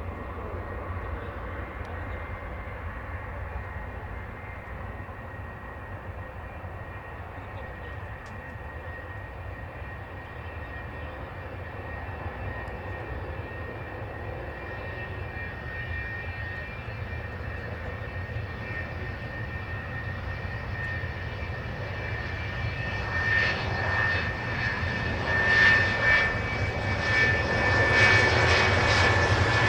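Military jet engine noise with a steady whining tone, distant at first, then growing louder over the last several seconds as the jet approaches.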